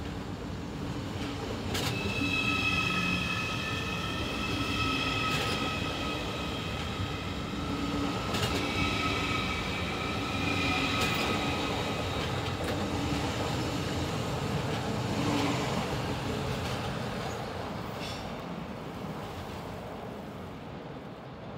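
ICE high-speed train pulling out and rolling past, its wheels squealing in high steady tones from about two seconds in until roughly halfway, with several sharp clacks over rail joints and points. The sound fades as the train draws away.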